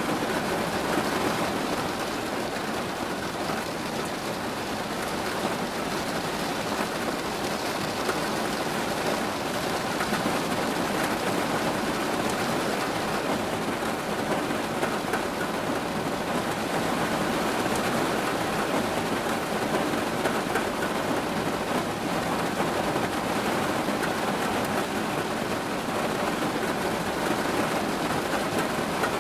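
Steady rain falling, an even wash of drops on surfaces with no breaks.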